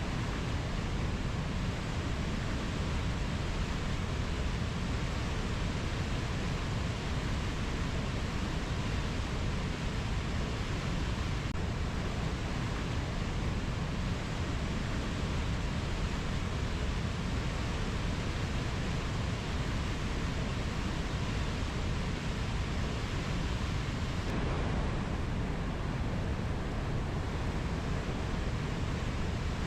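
Steady, even rushing noise with no distinct animal calls or other events; the highest part of it thins slightly about 24 seconds in.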